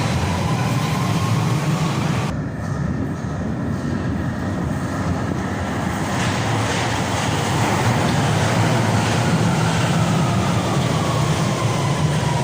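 London Underground Central line 1992 stock train running at the platform: a loud, steady rumble of wheels on rail with an electric traction-motor whine. The whine rises in pitch at first, and another falls in pitch over the last few seconds. The higher hiss drops away abruptly about two seconds in and comes back about four seconds later.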